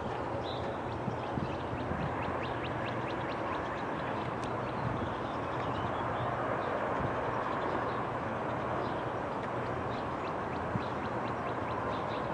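Train cars rolling past on the rails: a steady rumble with many quick, light clicks of the wheels.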